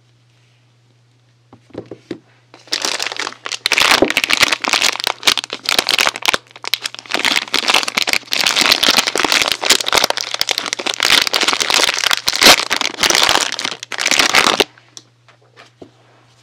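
Plastic packaging crinkling and crackling as a soap is unwrapped by hand: a dense, continuous run of crinkles and sharp crackles that starts a couple of seconds in and stops suddenly near the end.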